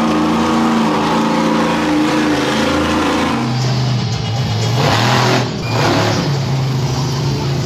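Monster truck engine revving hard, its pitch rising and falling with the throttle, with a brief dip in loudness about five and a half seconds in.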